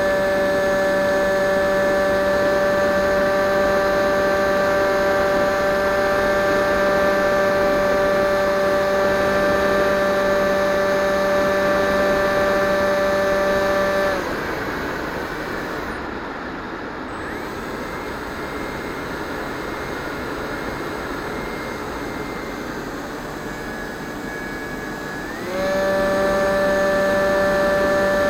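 Electric motor and propeller of a Multiplex EasyStar 2 RC plane whining at steady throttle, then cutting out about halfway through, leaving a rushing of air while the plane glides. Near the end the motor spools back up with a quick rise in pitch and holds steady again.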